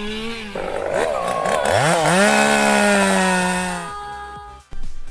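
Chainsaw revving: its pitch drops, then climbs back up about two seconds in, holds steady and cuts off near four seconds in.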